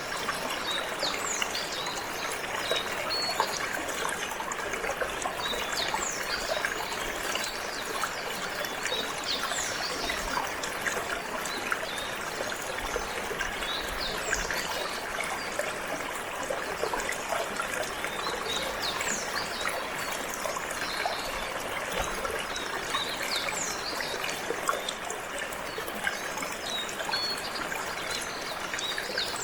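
Running water trickling and splashing steadily, with short, high chirps from a canary scattered throughout.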